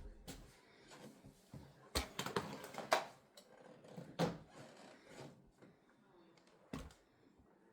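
Scattered light knocks and clicks, with a busier run of louder knocks about two to four seconds in and a single knock near the end.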